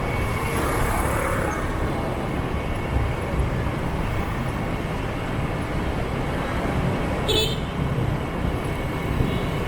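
Steady motorbike and street traffic noise heard while riding, with a heavy low rumble and a brief high-pitched sound about seven seconds in.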